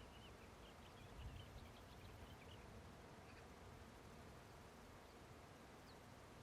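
Faint meadow ambience: a cluster of small high chirps in the first couple of seconds, then single chirps twice more, over a quiet low rumble.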